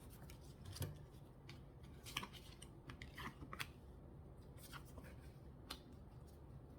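Lenormand cards being drawn and laid out by hand: faint, scattered clicks and light rustles at irregular intervals.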